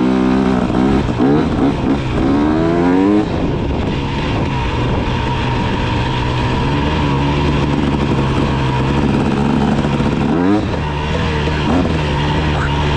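KTM 300 two-stroke dirt bike engine being ridden: it revs up in rising sweeps over the first few seconds, runs more steadily, then revs up again about ten seconds in.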